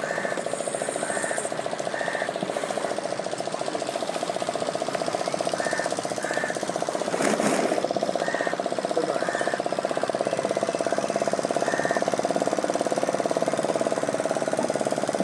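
A boat engine running steadily with a fast, even knocking beat.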